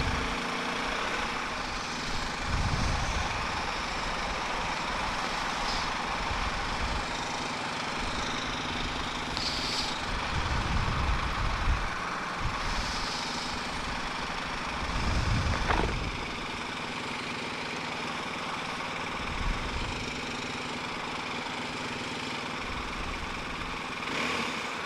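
Steady wind and road noise of a motorcycle ride at speed, over the engine of a BMW R 1250 GS Adventure, a boxer twin. Low rumbles swell and fade several times.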